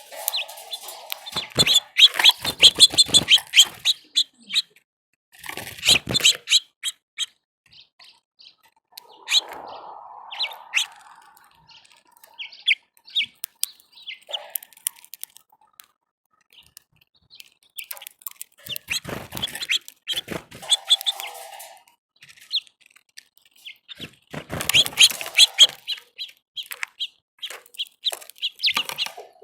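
Small songbirds at a feeder chirping in several bursts of rapid chirps, with quieter gaps between them.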